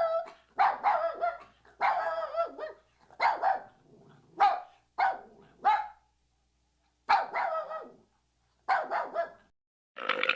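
A dog barking: a series of short, fairly high-pitched barks, irregularly spaced with brief pauses between them.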